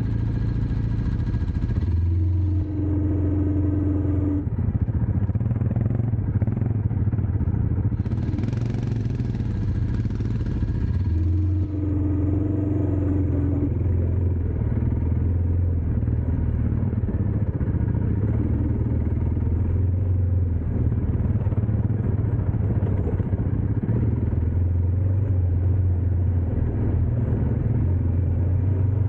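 Dirt bike engine running steadily as the bike is ridden, with a brief hissing rush about eight seconds in.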